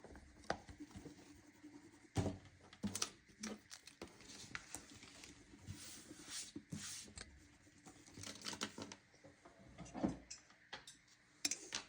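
Faint, scattered taps, clicks and rustles of art supplies being handled and set down on a tabletop.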